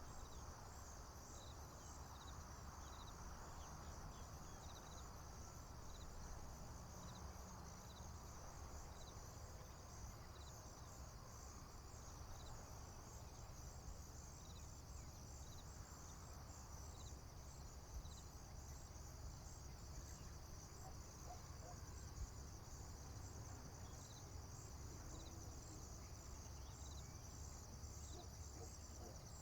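Faint chorus of field crickets and other insects: a steady high pulsing trill with short chirps repeating about once a second, over a low steady rumble.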